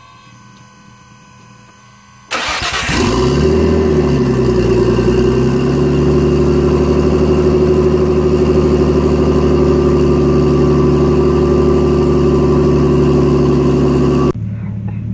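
Turbocharged car engine cold-starting with no downpipe fitted, so it runs open from the turbo outlet. It catches about two seconds in, flares up, then settles into a steady fast idle. Near the end it drops abruptly to a quieter running sound.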